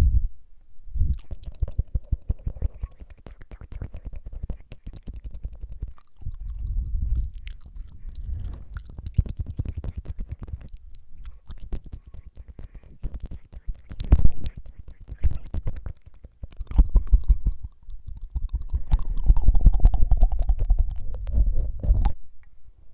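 Close-miked ASMR mouth sounds: rapid wet tongue fluttering, strongest in the low end, in about four runs of a few seconds each with short pauses between.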